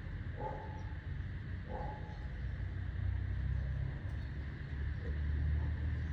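Two short, soft calls from a pet bird about half a second and two seconds in, over a steady low rumble that grows louder after about three seconds.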